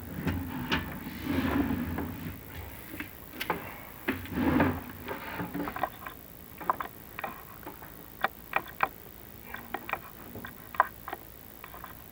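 Chimney inspection camera and its cable scraping and knocking against clay flue tile as it is lowered down the flue: rubbing scrapes in the first few seconds, then a run of sharp irregular clicks and taps.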